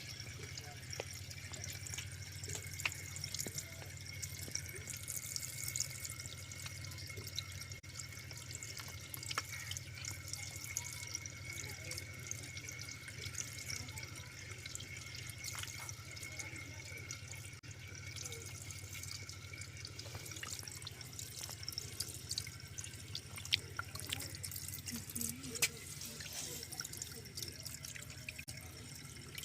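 Water running and dripping, as at a tap or sink, with scattered small clicks over a steady low hum.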